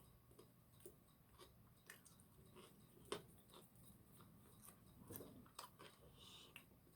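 Faint chewing of deep-fried seafood, with scattered soft crunches and clicks and one louder crunch about three seconds in.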